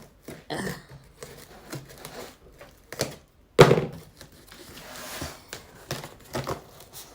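A cardboard box being opened and handled: scattered knocks and rustling, with one loud thump about three and a half seconds in.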